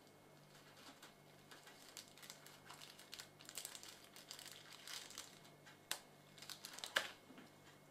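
Faint, irregular crinkling and small clicks, like light handling noise, thickest in the middle, with a sharp click near the end, over a faint steady low hum.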